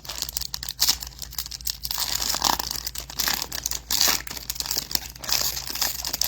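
Foil wrapper of a 2024 Topps Chrome football trading-card pack being torn open and crinkled, in a series of rustling bursts.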